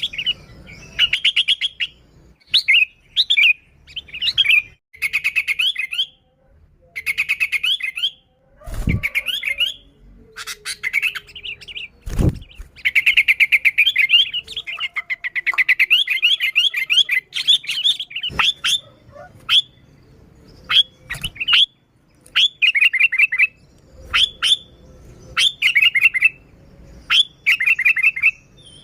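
Sooty-headed bulbuls (kutilang) calling busily, short bubbly chattering phrases repeated one after another with brief pauses. A few sharp knocks sound among the calls.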